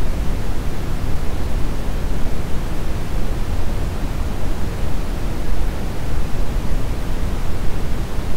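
Brown noise: a steady, even hiss-like rumble weighted heavily toward the low end, with no rhythm or pitch.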